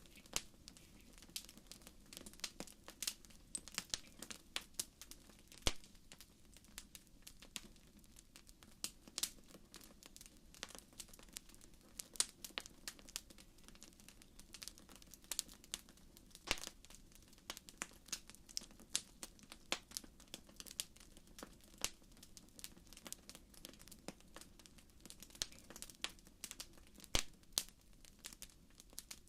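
Wood fire burning in a fireplace, crackling with irregular sharp pops and snaps over a low steady hiss.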